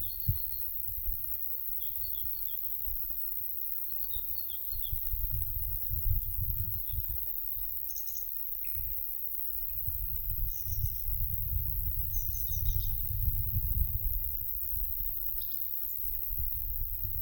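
Light wind gusting over the microphone as a low rumble that swells twice, with short chirps and twittering phrases of small songbirds scattered through it.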